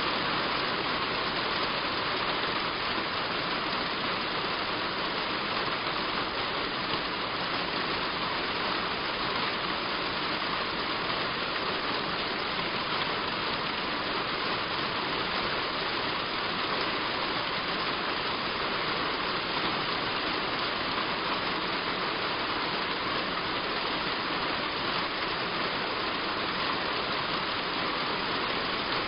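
Heavy rain falling on a roof: a steady, even hiss of drops that does not change.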